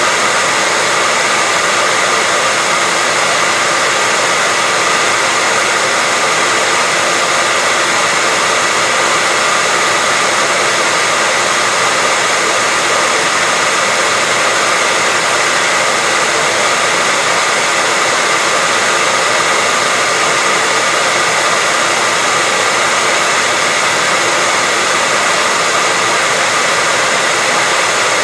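Hair dryer running steadily: a constant rush of blown air with a faint steady whine from the motor and fan.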